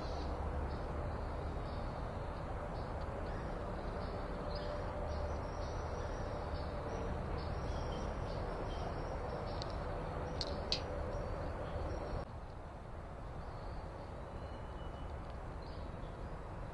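Small birds chirping over a steady background of outdoor rumble, with a couple of sharp clicks. About three-quarters of the way in, the background drops abruptly to a quieter level.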